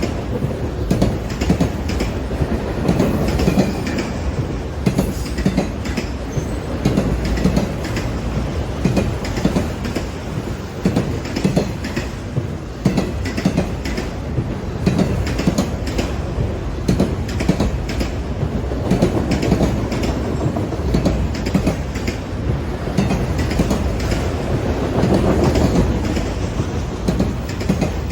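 Train passing, its railcars rolling by with a continuous rumble and a steady run of wheel clicks over the rail joints.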